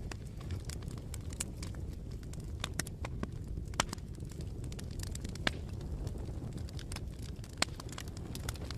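Campfire burning: a steady low rumble of flames with sharp wood crackles and pops scattered irregularly.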